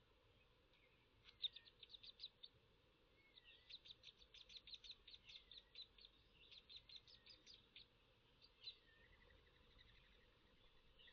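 Faint bird chirping: several quick runs of short, high chirps, with a softer gliding whistle from another bird behind.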